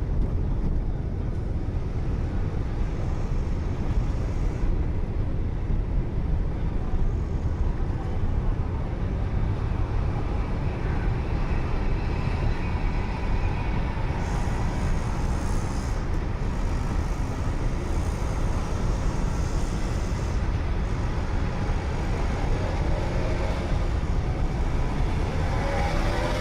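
Steady road and engine rumble of a car driving on a highway, picked up by a dashcam. Near the end a wavering pitched sound rises over the rumble.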